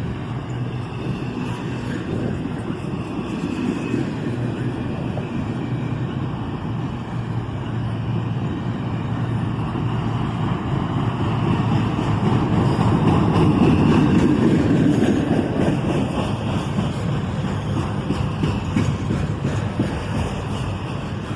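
CSX double-stack intermodal train rolling slowly past as it eases into a siding: a steady rumble of wheels on rail under a low diesel hum, growing louder about two-thirds of the way through and then easing off.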